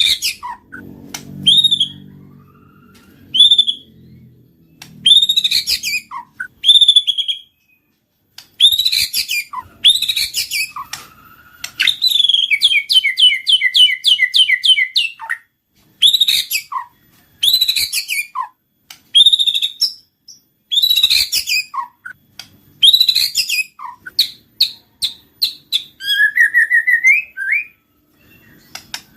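White-rumped shama (murai batu) singing loud phrases of clear whistles and sharp chirps. Partway through comes a fast run of evenly repeated notes, and near the end a quick rising trill.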